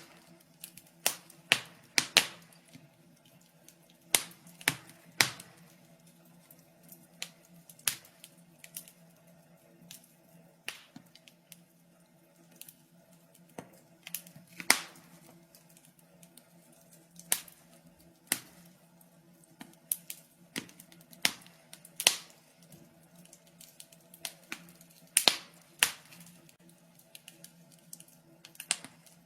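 Wood fire crackling in a fireplace: irregular sharp pops and snaps, several a second at times and sparse at others, over a faint steady low hum.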